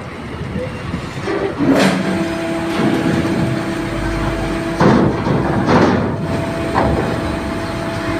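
Loud metallic clanks, five of them a second or so apart, over a steady hum, as vehicles roll across a ferry's steel loading ramp.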